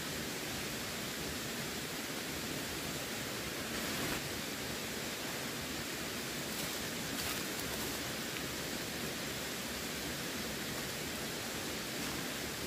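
Running water flowing steadily, a continuous even rush with a couple of brief, slightly louder splashes.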